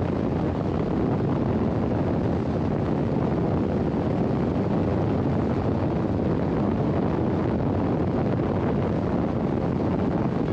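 Steady wind rush over the microphone of a motorcycle riding at road speed, with the engine running underneath.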